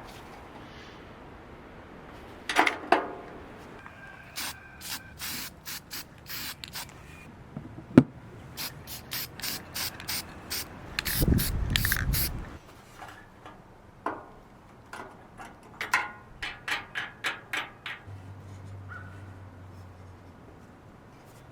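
Ratchet wrench clicking in several short runs of quick, even strokes while bolts are worked during a battery install, with a brief low rumble about halfway through.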